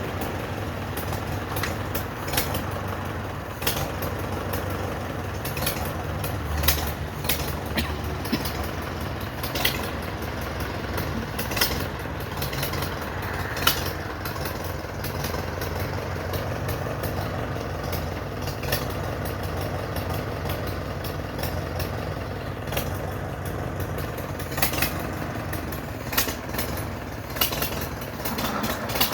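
1942 Farmall H tractor's four-cylinder petrol/paraffin engine running steadily, with short sharp knocks or clatters scattered throughout.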